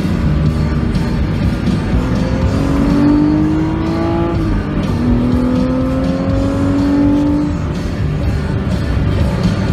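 BMW Z4 3.0i's straight-six engine accelerating hard, its pitch rising through one gear, dropping at an upshift about halfway through, then rising again through the next gear. Background music plays along with it.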